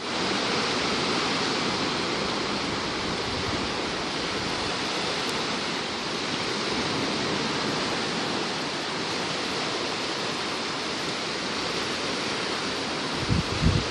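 Steady wash of sea surf, with a few brief low thumps near the end.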